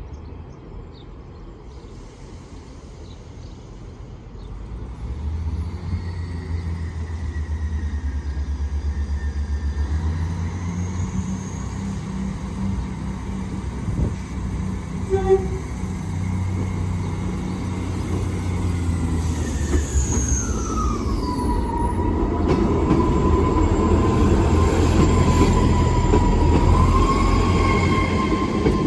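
South Western Railway Class 158 diesel multiple unit departing: its underfloor diesel engines throttle up about five seconds in and run hard, growing louder toward the end. Over them a high tone slides down in pitch about twenty seconds in, then holds steady.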